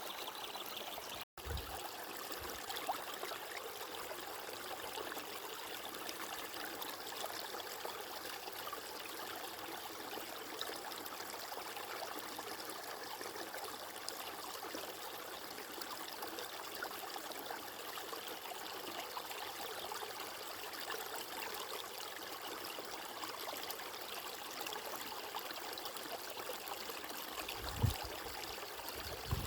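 Running water flowing steadily in a stream, with a brief dropout just over a second in and a couple of short low bumps, the loudest near the end.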